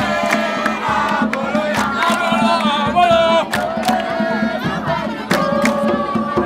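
Voices singing together in chorus, punctuated by irregular sharp percussive hits.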